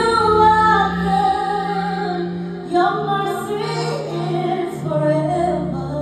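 A woman singing long held notes over sustained chords, with new phrases starting near the beginning, about three seconds in, and about five seconds in.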